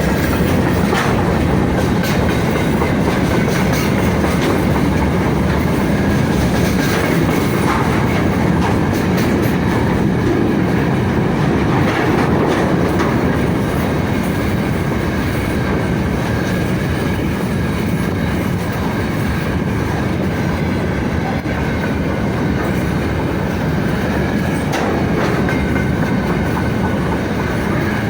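Freight train rolling past at steady speed, its wagon wheels clicking irregularly over rail joints, with a faint steady high-pitched wheel squeal.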